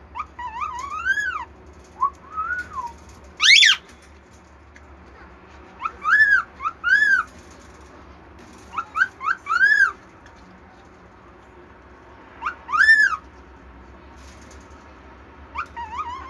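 A bird whistling: short groups of clear, arched notes that rise and fall, repeated every few seconds, with one louder sharp upward sweep about three and a half seconds in.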